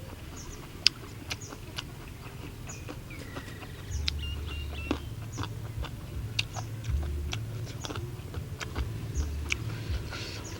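Someone eating noodles: irregular wet mouth clicks and smacks from chewing, with low thuds of handling.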